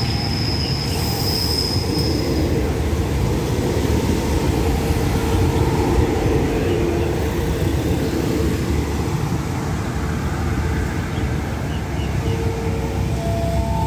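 Diesel multiple-unit passenger train passing along the platform close by, a steady heavy rumble of wheels and engines. Squealing tones from the wheels run through the middle.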